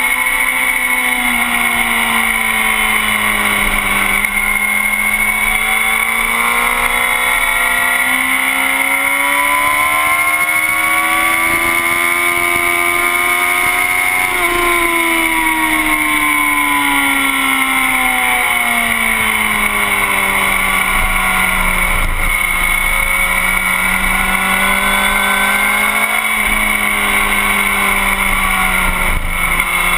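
Sport motorcycle engine heard from a tail-mounted camera at track speed, over a rush of wind. Its pitch climbs slowly for about ten seconds, falls away over the next several, then holds low, with a steady high whine running along.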